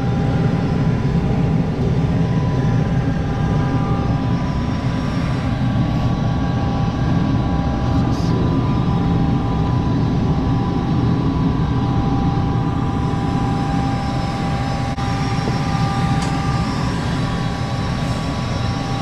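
Gas furnace running: a steady low rumble of the burners and fan with a faint steady whine over it. The burner flame is unsteady, which the technician fears is a sign of water still getting into the gas line.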